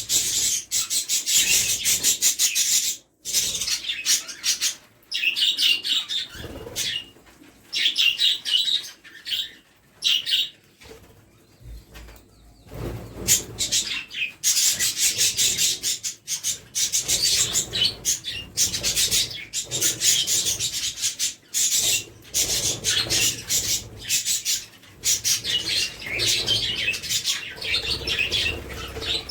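Pet budgerigars chattering in bursts of quick, high, scratchy chirps, with wings flapping. There is a lull about halfway through.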